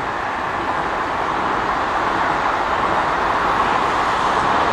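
Electric commuter train running past on the adjacent tracks, a steady rushing noise that grows slightly louder.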